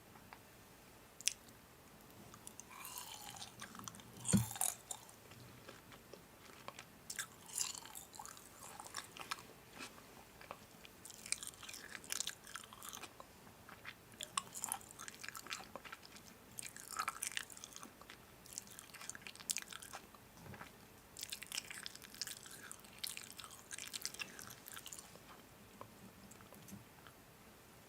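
Close-up, irregular crunching and crackling of crisp food, in short clusters with quiet gaps; the loudest crunch comes about four seconds in.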